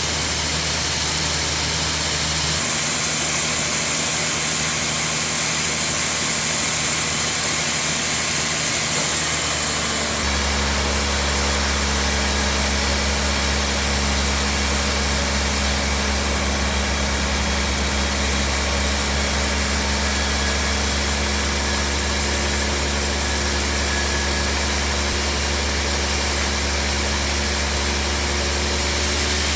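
Sawmill machinery running steadily with an engine-like hum, the low hum growing stronger about ten seconds in.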